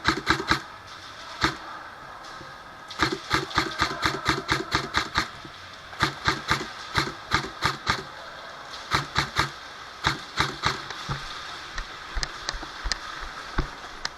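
Airsoft guns firing: strings of sharp shots at about five a second, in runs of one to two seconds with short pauses, becoming scattered single shots near the end.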